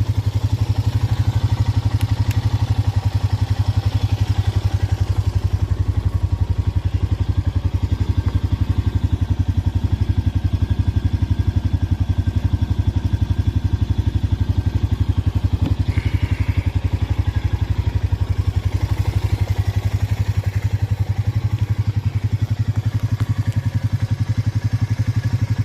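Motorcycle engine idling steadily with an even, rapid beat.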